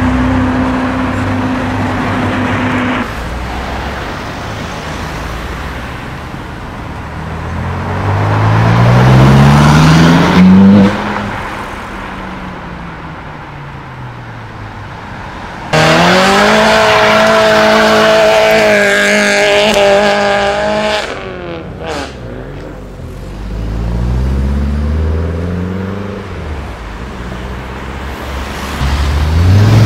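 Sports car engines accelerating away one after another, the revs climbing and falling as each car pulls off and shifts. A loud, high-revving engine comes in suddenly about halfway through, holds a steady high note for several seconds, then drops away.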